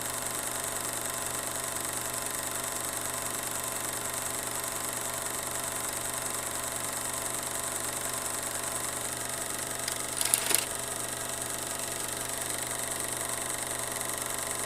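A steady, engine-like mechanical hum, with a brief noisy burst about ten seconds in.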